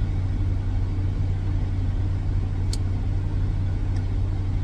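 Steady low drone of an idling semi-truck diesel engine, heard from inside the cab, with a couple of faint sharp ticks.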